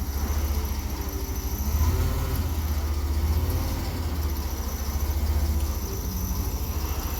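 A vehicle engine idling, a low steady rumble that swells slightly now and then.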